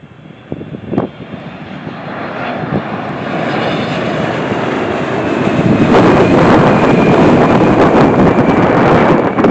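Airliner flying past, its engine noise building from about a second in to a loud, steady peak over the last few seconds, with a faint high whine above it. A short knock sounds about a second in.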